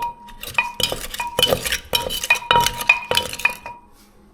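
Utensils knocking and clinking in a mortar as green papaya salad is pounded and mixed: a quick run of sharp strikes with a short ringing after each, which stops near the end.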